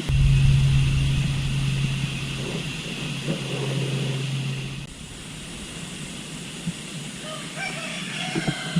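A steady low hum with a rumble beneath it for about the first five seconds, cutting off suddenly. A rooster starts crowing near the end.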